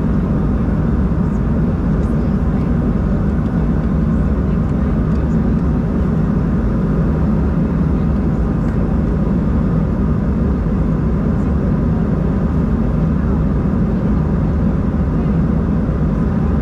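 Steady cabin noise of an Embraer 190-E2 jet airliner: the drone of its engines and the rush of air, holding an even level.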